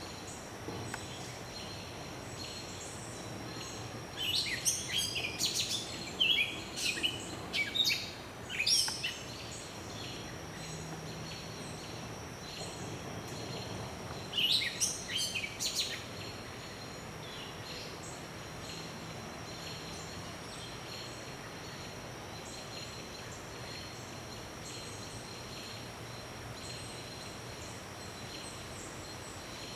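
Woodland birds calling: two bouts of loud, rapid chirps, the first about four to nine seconds in and the second around fifteen seconds in, over a faint steady high-pitched hum.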